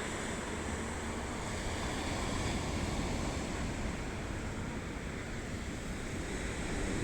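Sea waves washing onto a beach in a steady surf noise, with some wind rumbling on the microphone.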